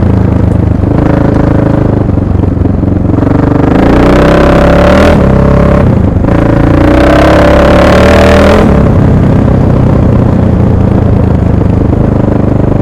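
A 1998 Husaberg FC600's big single-cylinder four-stroke engine revving under acceleration, its pitch rising and falling in about three surges.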